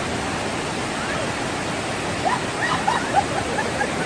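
Waterfall rushing in a steady, even roar of falling water. A few brief high calls cut through it in the second half.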